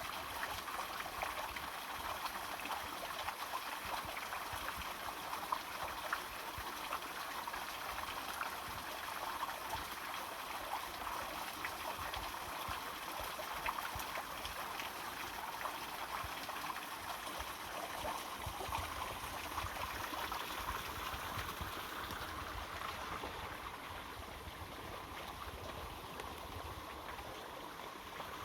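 Water running and splashing over rocks at a small creek waterfall: a steady, even rush.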